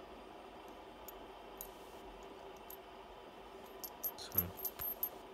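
Light metallic clicks and taps of a fidget spinner's small parts, its bearing-retaining ring and R188 bearing, being handled as it is taken apart. A few faint clicks, then a quick cluster of clicks with one duller knock about four seconds in.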